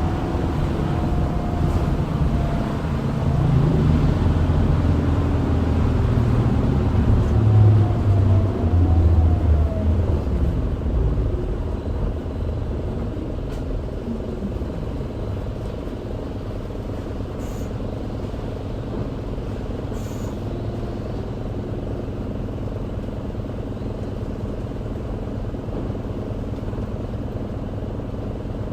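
Isuzu Erga city bus (QDG-LV290N1) heard from inside: its diesel engine pulls loudly for about the first ten seconds, then the revs fall away. It settles to a steady, quieter running sound, with a couple of faint clicks.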